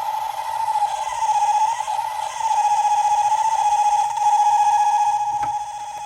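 Dual ECC82/12AU7 vacuum tube drone oscillator playing through a small test speaker: a steady, slightly wavering drone tone with faint overtones that swells louder twice. A short click about five and a half seconds in, after which the drone drops back in level.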